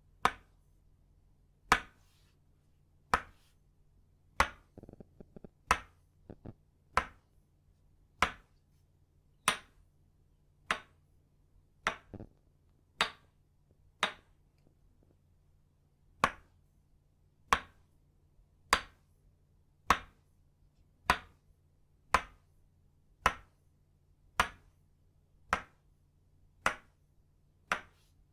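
Tok sen: an itauba wood mallet tapping a wooden peg in a slow, even rhythm of sharp knocks, about one every second and a bit. A short run of light clicks comes about five seconds in.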